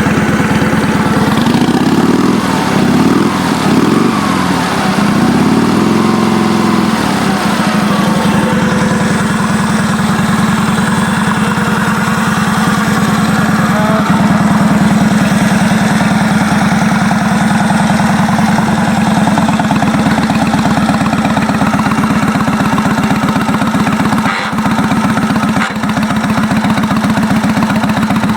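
1937 Indian Sport Scout's flathead V-twin engine running. The throttle is blipped three times early on, the pitch rising and falling each time, then it settles to a steady idle that dips briefly twice near the end.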